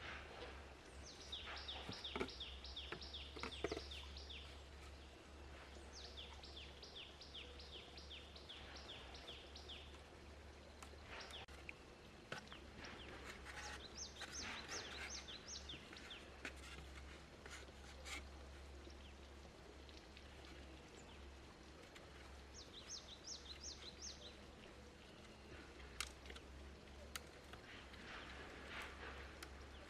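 A small bird singing fast trills of short, high, down-slurred notes in several bouts a few seconds apart, with a few sharp knocks between them.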